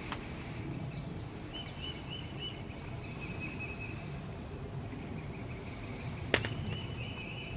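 Quiet swamp ambience: a faint, high, pulsing trill comes and goes over a low outdoor rumble, with one sharp click about six seconds in.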